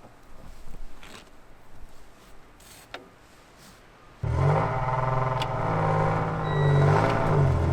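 A few light clicks and knocks, then about four seconds in a truck engine suddenly starts running, its pitch wavering a little as it settles.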